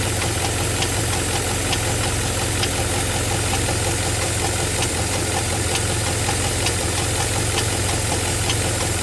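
Pontiac G8 engine idling steadily with a faint, sharp tick about once a second: the ticking noise the owner wants to show.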